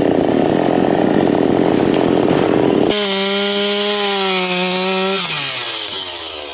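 Chainsaw cutting into a teak trunk under load, with a rough engine sound. About three seconds in it changes abruptly to a clean, steady engine tone, which falls in pitch from about five seconds in as the saw winds down.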